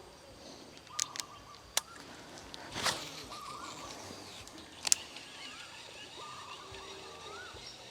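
Faint outdoor birds calling in short rising and falling chirps, with a few sharp clicks and a brief rush of noise near the middle.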